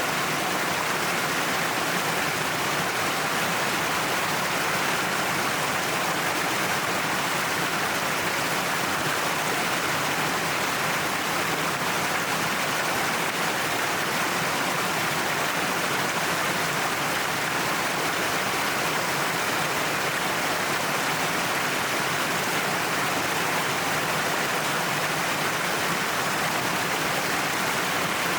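Waterfall splashing steadily down a cliff, an even rush of falling water.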